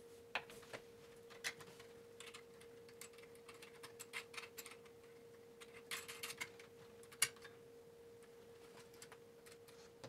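Faint, scattered metal clicks and taps as a metal cord strain relief clamp is handled and fitted into the hole of a dishwasher's steel wiring box, its nut turned finger tight; the sharpest click comes about seven seconds in. A faint steady hum runs underneath.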